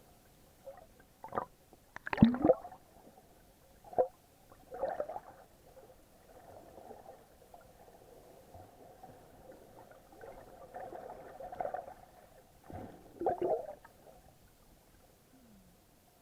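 Water sloshing and gurgling around a snorkeler's action camera, heard muffled through its waterproof housing. Several louder splashy surges stand out, the loudest about two seconds in and another near the end, with softer gurgling between.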